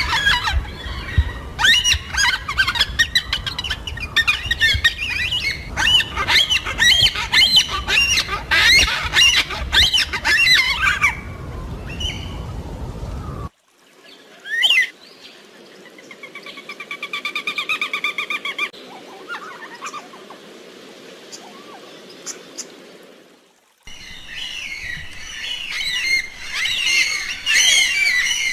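A flock of yellow-tailed black cockatoos calling and squawking, many calls overlapping. About 13 seconds in the sound cuts abruptly to a quieter recording with a pulsing, buzzing call that swells and fades. Near the end it cuts back to busy overlapping calls.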